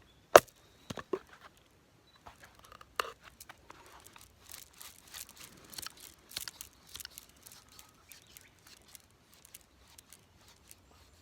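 Firewood being worked with a knife: a sharp knock of a batoning strike just after the start and a couple more about a second in, then a run of light, irregular scraping and snapping of wood.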